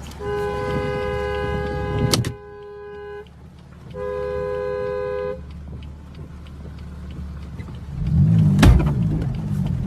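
Car horn honking two long dual-tone blasts, the second shorter, followed by a low rumble near the end.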